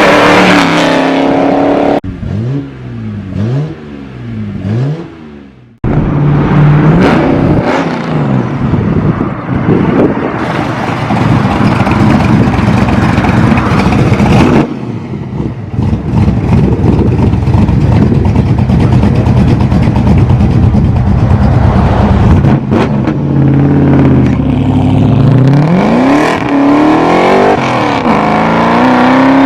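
A 600 bhp Ford Mustang's V8 engine, loud throughout. Around the start it is blipped several times, the pitch rising and falling. It then runs hard at high revs for a long stretch, and is revved up and down again near the end.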